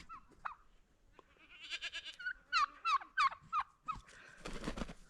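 Domestic turkeys calling: a quick series of five or six short high yelps in the middle, with a burst of noise near the end.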